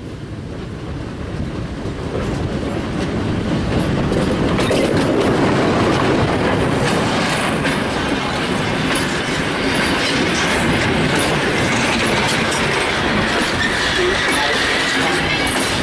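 Museum-railway diesel locomotive growing louder as it approaches and passes close by. It is followed by passenger coaches rolling past, their wheels clicking over the rail joints.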